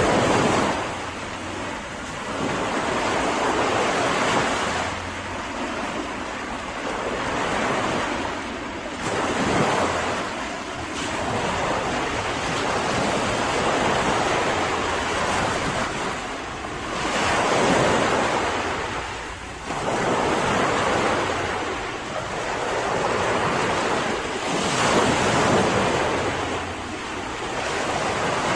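Mediterranean sea waves breaking and washing up on a beach. The surf swells and fades in a slow, irregular rhythm, a surge every four to eight seconds.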